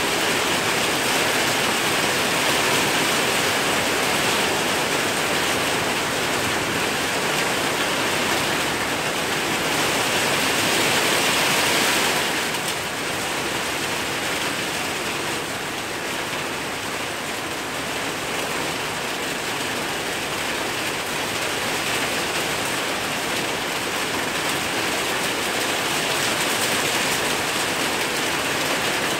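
Heavy rain pouring down onto a waterlogged garden and paving, a steady hiss that drops a little in level about twelve seconds in.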